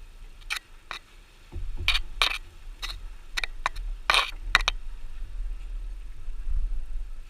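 A run of about a dozen sharp scrapes and clicks, irregularly spaced and bunched in the first two-thirds, over a low rumble that sets in about a second and a half in.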